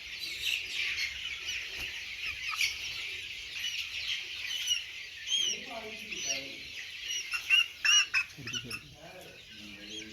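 A flock of 45-day-old desi chicks peeping and chirping over one another in quick, high calls. A few lower, longer calls come in about halfway through and again near the end.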